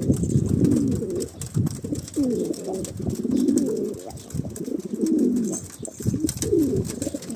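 Domestic pigeons cooing: low, rolling, warbling coos repeated about every second and a half, with faint scattered clicks between them.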